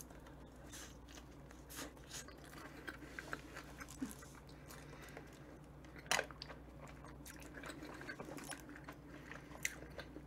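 Faint close-up chewing of a soft sandwich, with small wet mouth sounds and light clicks as it is bitten and chewed. About six seconds in, a brief sharper sound comes with a sip through a straw from a drink carton.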